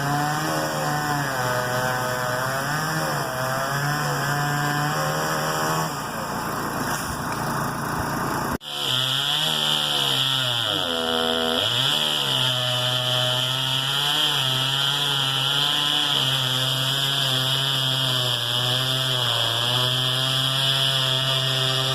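Echo CS-670 two-stroke chainsaw running at high revs while cutting oak, its engine pitch rising and falling with the load. About nine seconds in, the sound breaks off for an instant and resumes. Shortly after, the revs sag sharply and recover as the chain bogs in the cut.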